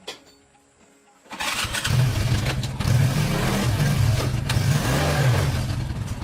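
Small motorcycle engine starting up about a second in and running with its revs rising and falling, then cutting off suddenly near the end.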